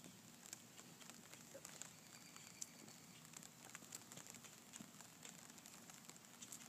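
Light rain pattering faintly, with scattered drops ticking irregularly.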